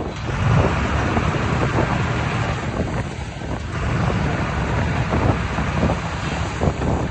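Diesel engine of a heavy earthmoving machine running steadily at working speed, with irregular knocks and rattles over it.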